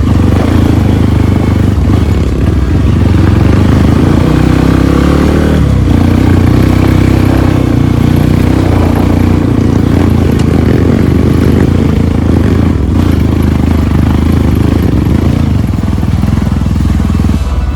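Off-road trail motorcycle engine running loud under load, its pitch rising and falling with the throttle.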